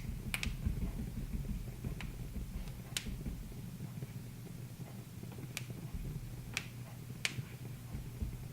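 Wood fire in a fireplace crackling: sharp, irregular pops every second or so over a low, steady rumble.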